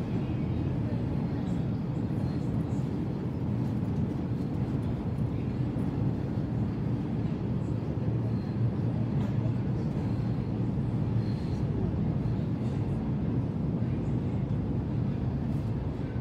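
Sydney Trains Millennium (M-set) electric train heard from inside the carriage while running: a steady low rumble of wheels and traction.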